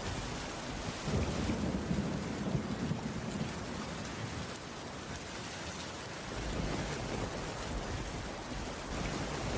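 Steady rain falling, with a low rolling rumble that swells about a second in and again near the end.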